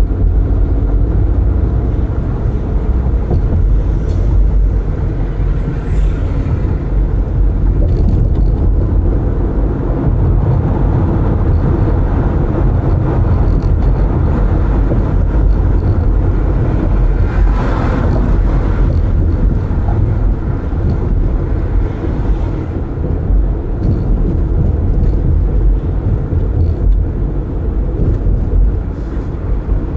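Road and wind noise inside a car driving with its windows open: a steady low rumble of tyres and air, with a brief louder whoosh a little over halfway through.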